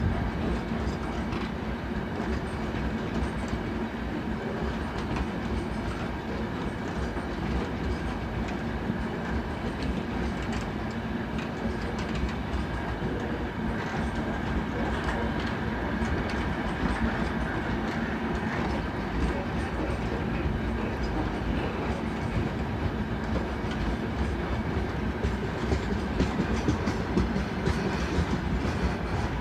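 A long freight train's wagons rolling past at steady speed: a continuous rumble of wheels on rail, with repeated clicks as the wheels cross rail joints.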